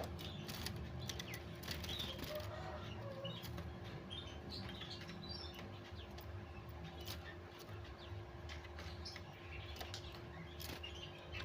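Faint, short high chirps from a white-rumped shama chick, with scattered small clicks and rustles.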